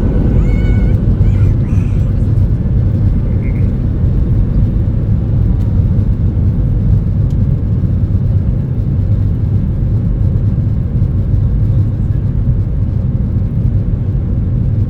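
Steady low rumble of a Boeing 737-800's cabin with its CFM56 engines running.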